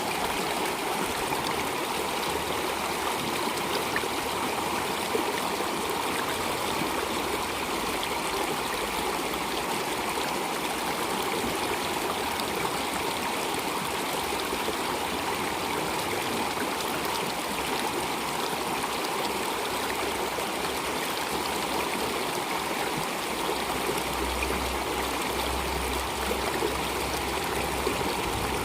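Water flowing steadily in a stream, an even rushing and trickling with no breaks. A faint low rumble joins in near the end.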